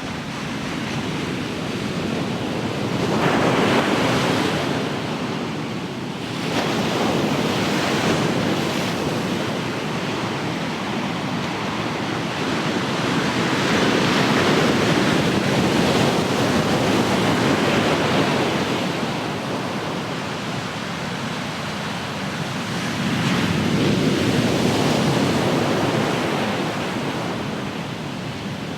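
Ocean surf: waves breaking and washing up the shore in a steady rush, swelling four times and easing back between the swells.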